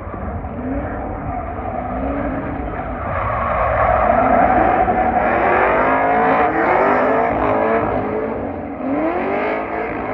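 A car engine revving hard, its pitch repeatedly rising and falling, with tyre squeal as of a car drifting. Loudest in the middle, easing toward the end.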